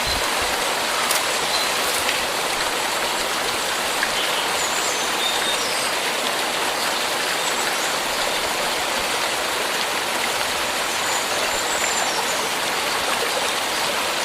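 A steady, even rushing hiss that does not change, with a few faint, short high chirps from sooty-headed bulbuls (kutilang) scattered over it.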